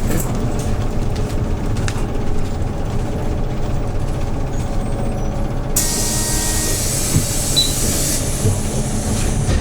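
Hyundai New Super Aero City CNG city bus engine running low and steady, heard from inside the bus. About six seconds in, a loud hiss of compressed air from the bus's pneumatic system starts suddenly and lasts about two seconds, then carries on more faintly until near the end.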